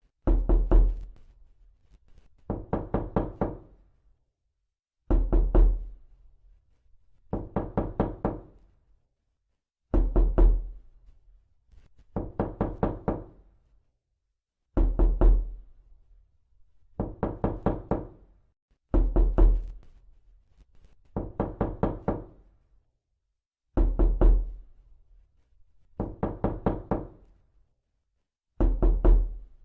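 Knocking: quick runs of about five or six knocks, repeated about every two and a half seconds.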